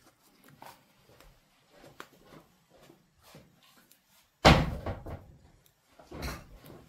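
Kitchen clean-up: faint scattered clicks and light knocks, then a loud sudden thud about four and a half seconds in that dies away, like a cupboard door shutting, and a softer knock near the end.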